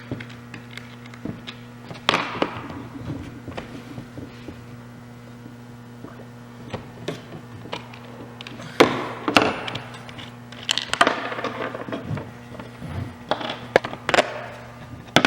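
Parts being handled while a pole chainsaw's housing is opened for assembly: scattered knocks and clicks, with a few louder ones about two, nine, eleven and fourteen seconds in.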